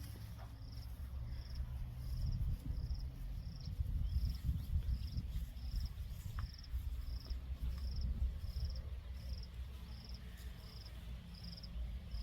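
A cricket chirping steadily, about two short trilled chirps a second, over a low, uneven rumble.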